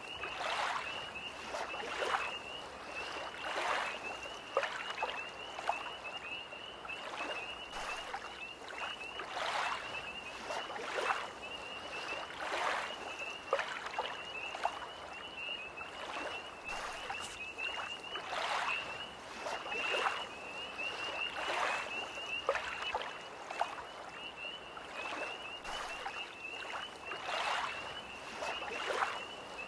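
Small lake waves lapping at the shore in irregular splashes every second or two, under a continuous high, rapidly pulsing trill of tree frogs.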